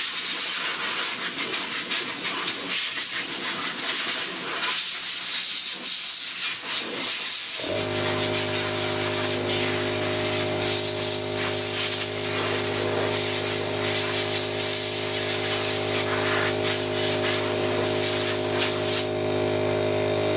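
Long hiss of compressed air blowing from an air nozzle. About seven and a half seconds in, the shop air compressor kicks on and runs with a steady hum under the hiss. The air blast stops shortly before the end, leaving the compressor running.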